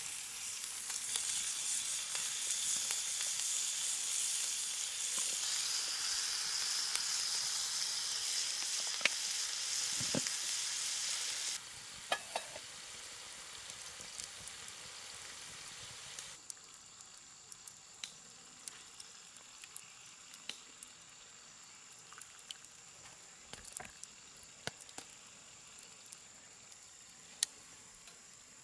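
Food sizzling as it fries in a pan, dotted with sharp crackles. The sizzle stops abruptly about a third of the way in. Quieter scattered crackles and a steady high insect drone follow.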